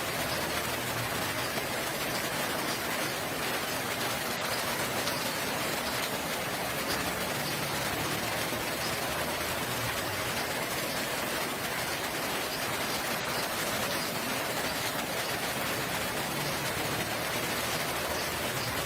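Steady rain falling, an even hiss of drops that holds unchanged throughout.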